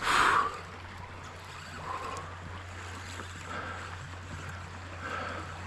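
Creek water running steadily, with one short louder rush of sound in the first half-second.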